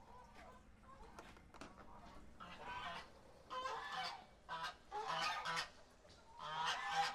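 Domestic geese honking, a run of loud, harsh calls that starts about two and a half seconds in and comes in four or five bursts, the loudest near the end.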